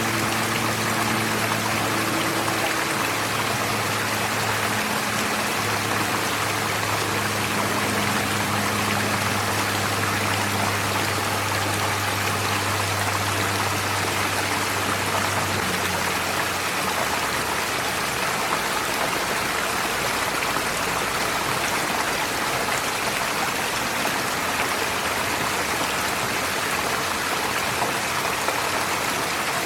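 Forest stream flowing over stones: a steady rush of water. Low steady tones sound beneath it for the first half and stop about halfway through.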